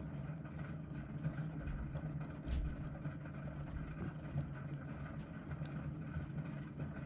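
Steady low background hum, with a few faint small ticks scattered through it.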